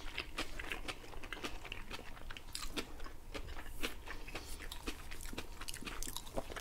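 Close-miked chewing and biting of shawarma wrapped in grilled lavash: many small, irregular wet clicks and smacks of mouths eating.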